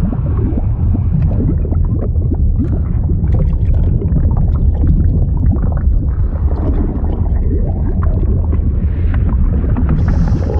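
Liquid sound effect: a continuous deep rumble of churning fluid with dense gurgling and bubbling over it.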